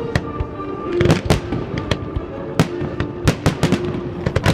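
Aerial fireworks going off in a rapid, irregular string of sharp bangs and cracks.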